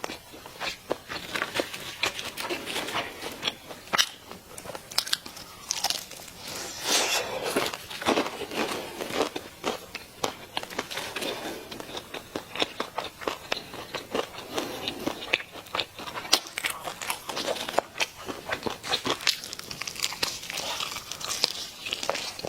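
Close-up sounds of someone eating fried chicken: crunchy biting through the crisp coating and chewing, with many sharp irregular crackles throughout.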